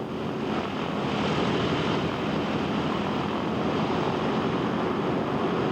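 Boeing B-17G Flying Fortress's four Wright R-1820 Cyclone radial engines droning steadily, with a dense rush of noise over the engine hum. The sound swells up over the first second and then holds steady.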